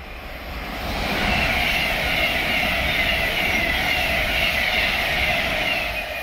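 Express passenger train passing at speed: a steady rush of wheels on rail that builds over the first second, holds, and begins to fade near the end, with a faint repeating beat about twice a second.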